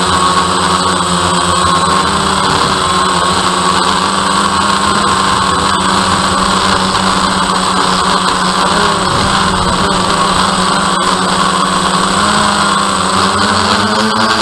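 DJI Phantom quadcopter's motors and propellers humming steadily, several tones held together with small wavers in pitch.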